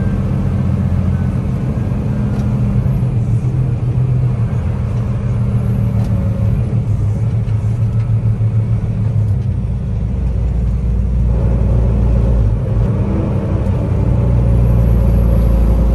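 Semi truck's diesel engine running as the truck drives, a steady low drone that grows a little louder in the second half.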